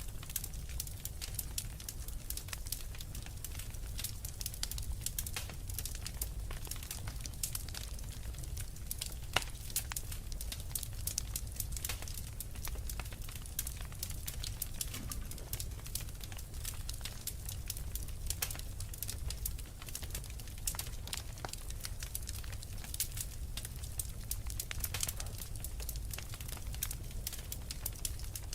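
Wood fire crackling in a fireplace, with dense irregular pops and snaps, over a low steady rumble.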